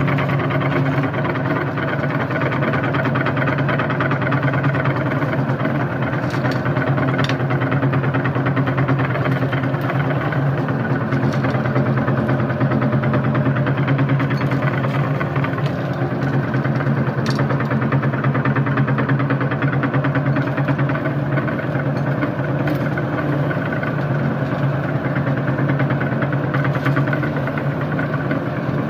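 Electric meat grinder running steadily with a constant motor hum, with a few faint sharp cracks here and there as chocolate balls are crushed in it.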